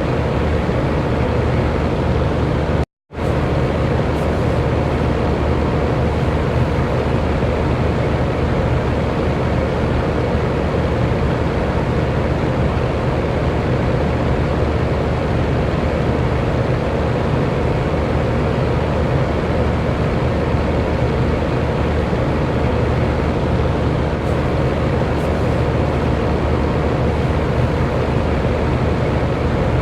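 Electric fan running steadily, a constant whooshing noise with a faint hum. About three seconds in, the sound cuts out completely for a split second, then resumes unchanged.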